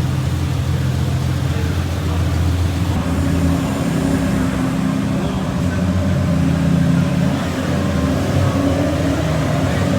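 Supercar engine running at low revs as it pulls in, with its pitch shifting a few seconds in.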